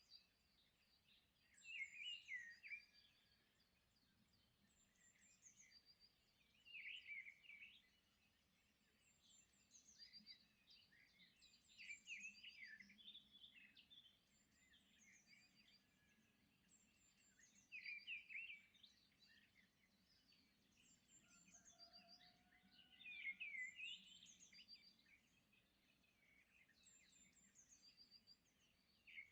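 Faint bird chirps and short twittering calls, with a louder flurry about every five seconds.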